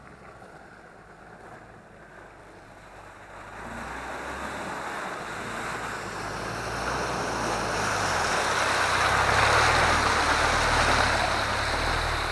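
A 4x4 off-road vehicle driving through mud and water, its engine labouring with a low rumble under a rushing splash. The splash builds from about four seconds in, is loudest near the end, then eases a little.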